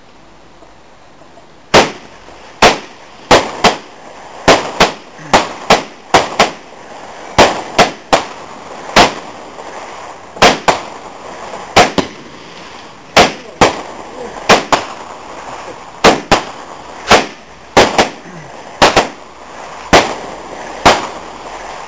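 Consumer fireworks going off in a long string of about thirty sharp bangs, irregularly one or two a second, starting about two seconds in.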